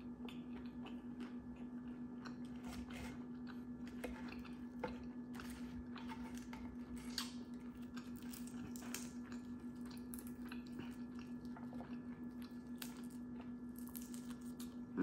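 Close-up chewing of crunchy fried chicken wings: irregular crunches and wet chewing sounds, over a steady low hum.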